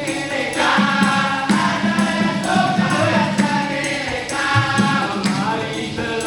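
A vocal group singing in harmony over a steady percussion beat.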